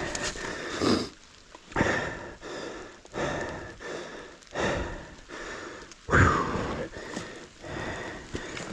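A person breathing hard, loud rhythmic breaths about every second and a half, one with a falling voiced edge about six seconds in.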